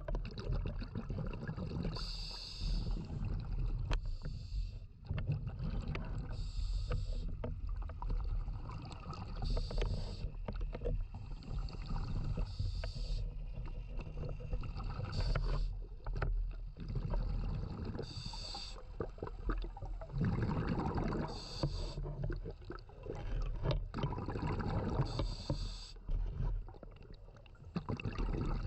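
Scuba diver breathing through a regulator underwater: a short hiss about every three seconds, with bubbling and a low rumble between breaths.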